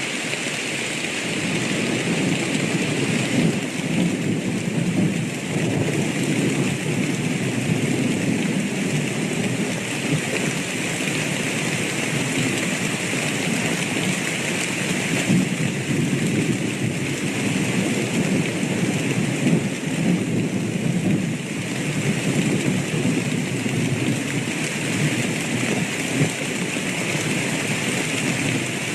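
Steady heavy rain with a continuous low rumble of thunder.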